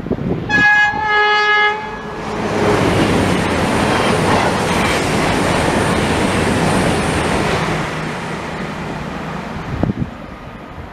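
A train sounds a two-tone horn, a higher note then a lower one, and then passes close by. Its wheels on the rails make a loud, steady rush for about eight seconds, easing off near the end.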